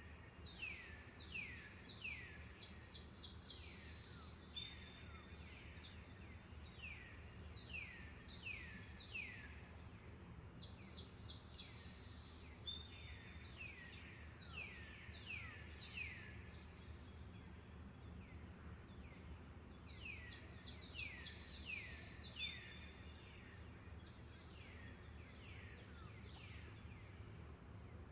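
Wild songbirds singing in a forest: repeated series of quick downward-sweeping whistled notes and short trills, over a steady high-pitched whine that runs without a break.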